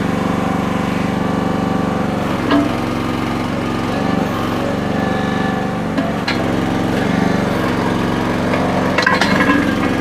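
Small gasoline engine of a towable mini backhoe running steadily while the machine is worked, its note shifting a few times, with a few sharp knocks about two and a half, six and nine seconds in.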